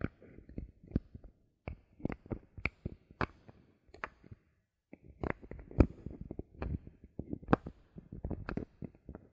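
Bottle caps being handled close to the microphone as ASMR triggers: irregular sharp clicks and taps mixed with soft rustling, with a short pause a little past the middle and the loudest click about six seconds in.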